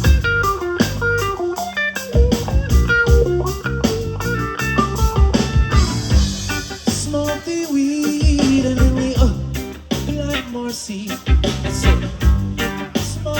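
Live reggae band playing an instrumental passage: guitar lines over a steady bass and drum beat.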